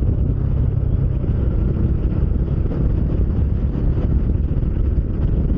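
Bajaj Dominar 400's single-cylinder engine running steadily while riding, a low even rumble mixed with wind rush on the microphone.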